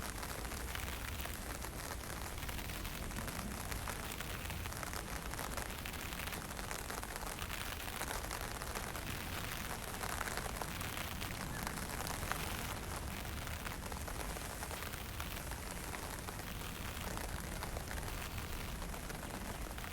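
Steady wind with a fine drizzle falling, and a low rumble of wind buffeting the microphone.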